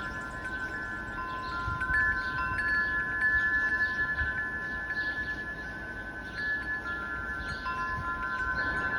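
Wind chimes in a relaxation soundtrack: several overlapping ringing tones held for seconds at a time, shifting notes now and then, over a steady hiss.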